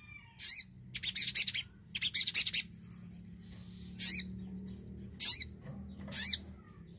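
Little spiderhunter (sogon) singing: three rapid, high chattering phrases, then three short, sharp calls about a second apart. A faint low hum runs underneath.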